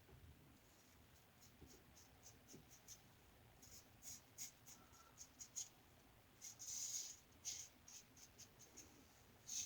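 A 3D-printed injector-style razor with a Schick injector blade scraping through lathered stubble in short, faint strokes, sparse at first and coming quicker from about three and a half seconds in, with one longer stroke near the seven-second mark.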